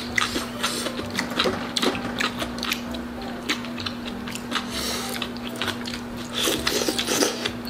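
Close-miked eating sounds: crunching and chewing of crispy deep-fried pork (tangsuyuk), with many small clicks and crackles, over a steady low hum.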